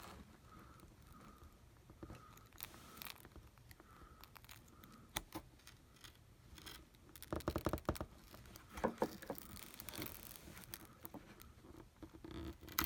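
Pry tools and picks scraping and clicking against an iPad mini's glass and frame as the screen's adhesive is worked loose, with a quick run of clicks about seven seconds in.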